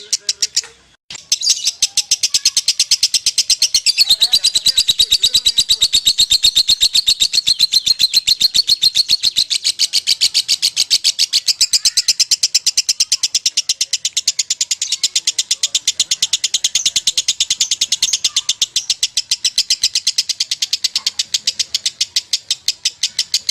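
Lovebird singing a long ngekek: a fast, unbroken run of sharp, high chirps, evenly spaced and many per second, starting about a second in after a short pause.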